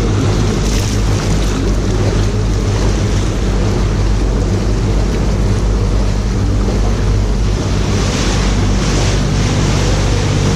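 Canal tour boat's engine running at a steady low hum, with water wash and wind on the microphone.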